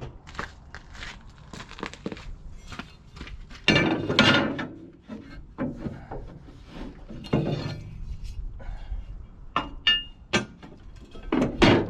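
Clinks, knocks and scrapes of metal hand tools and bolts as a steel cover is fitted to a Cat 953C track loader, with a few longer rattling stretches and a brief metallic squeal.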